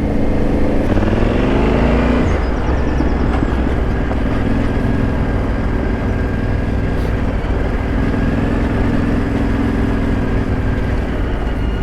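Yamaha Ténéré 700's 689 cc parallel-twin engine running as the bike is ridden along a lane. The revs rise over the first two seconds, drop sharply, then hold fairly steady.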